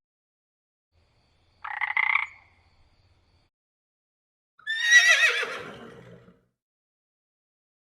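A frog croaks once, about two seconds in. A few seconds later a horse gives one long whinny with a wavering pitch that drops away at the end.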